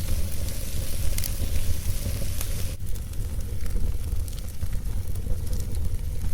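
Wood fire burning: a steady hiss with a few sharp crackles and pops, over a constant low rumble.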